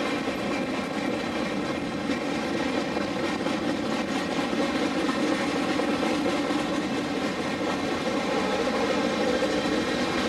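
Boxcars of a passing freight train rolling by: a steady noise of steel wheels running on the rails.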